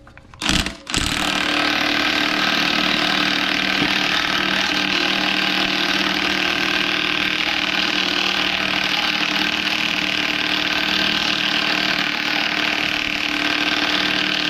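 Impact wrench hammering on the 32 mm nut for about fourteen seconds without a break, while the nut stays tight.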